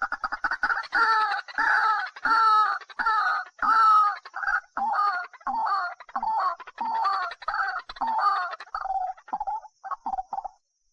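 A bird calling over and over: a fast run of short calls, then longer calls about two a second, trailing off into a few short ones and stopping shortly before the end.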